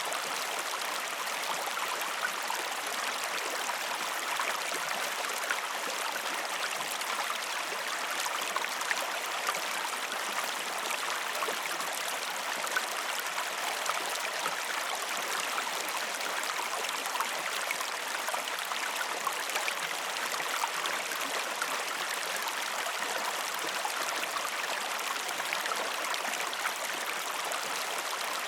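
A river flowing: a steady, even rush of running water with many small splashes.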